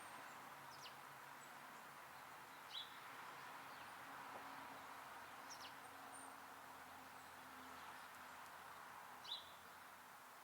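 Faint, scattered short chirps from small songbirds, about five in ten seconds, over a steady low outdoor hiss.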